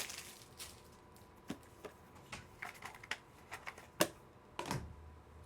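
Scattered light clicks and taps of plastic card holders and box packaging being handled on a table, with one sharper knock about four seconds in.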